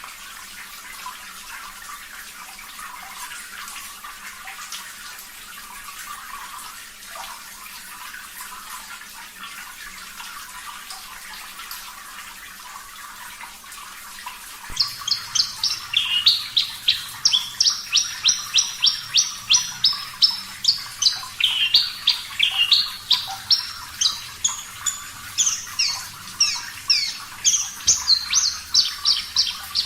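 Steady running water trickling. About halfway in, a Javan bush lark (branjangan) starts singing a fast, unbroken series of sharp high notes that hop up and down in pitch.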